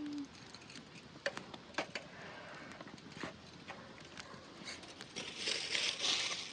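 A few light knocks and clicks of cookware and utensils, then a louder, brief scraping rustle near the end.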